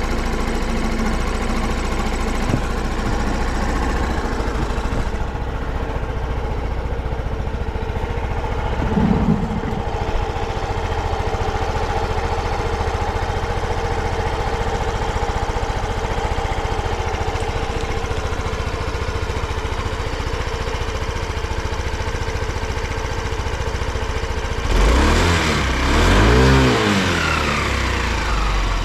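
Yamaha BWS 125 scooter's single-cylinder engine idling steadily, with a short throttle blip about a third of the way through and two revs rising and falling near the end. It runs smoothly, with no abnormal noise.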